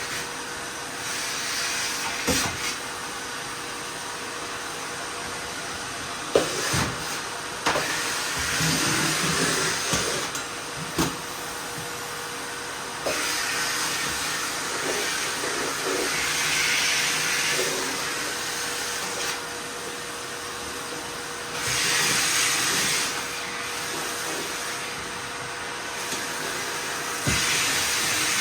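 Miele vacuum cleaner running steadily with a constant motor hum, the suction hiss swelling and easing as the nozzle is worked over the floor, with a few scattered sharp clicks and knocks.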